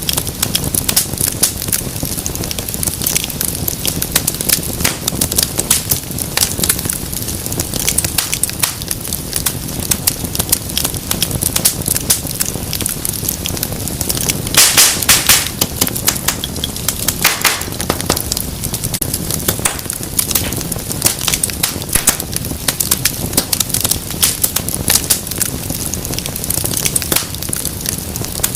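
Wood fire crackling and popping steadily over a low rumble of flame, with a burst of louder, sharper pops about halfway through.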